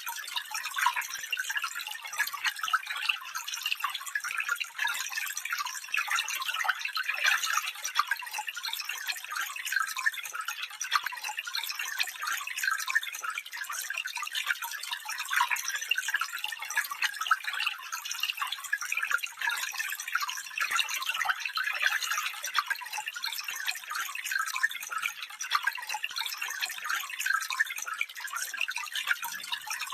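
Small stream running over stones, a steady high trickling and babbling with no low rumble.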